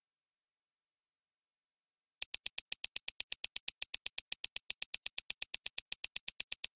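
About two seconds of silence, then a rapid, perfectly even ticking, about eight sharp, bright ticks a second.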